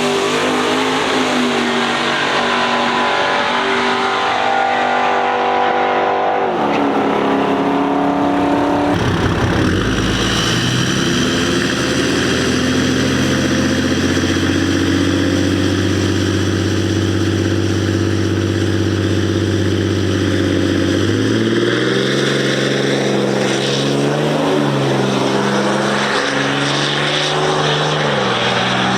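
Vehicle engine running and revving: the pitch climbs over the first few seconds, holds steady for about ten seconds, then drops and wavers.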